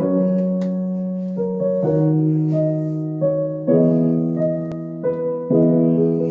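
Instrumental music intro: piano or electric keyboard playing slow sustained chords that change every second or two.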